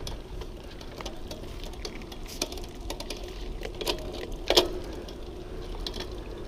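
Irregular clicking and ticking from a Castello Vetto racing bicycle's chain and gears as the gears are tried, with a few sharper clicks about two and a half, four and four and a half seconds in; the shifting needs some fine tuning.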